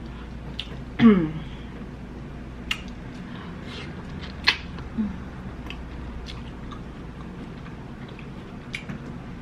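Close-miked eating of colossal shrimp: soft chewing with sharp mouth clicks and smacks. About a second in, a short falling hum of enjoyment is the loudest sound.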